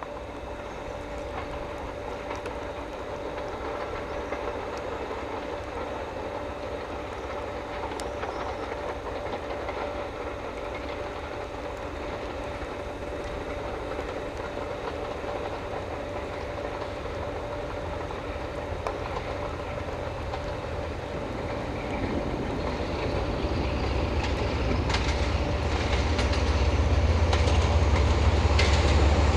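A train approaching, a steady rumble with a held tone that grows louder over the last several seconds, with a few sharp clicks near the end.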